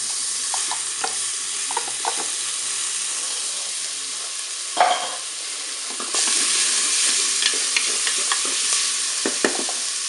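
Chopped onion and garlic sizzling in hot olive oil in the Cookeo multicooker's bowl on browning mode, while a wooden spatula stirs and clicks against the bowl. There is a louder clack about five seconds in, and the sizzle gets louder about six seconds in.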